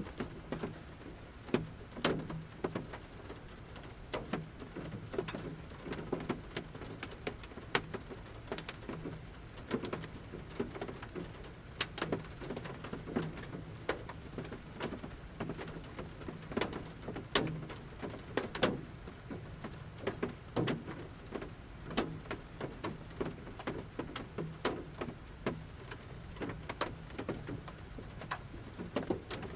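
Large raindrops from the forest canopy tapping on the metal roof of a camper van, heard from inside. The sharp, irregular taps come a few a second over a soft rain hiss.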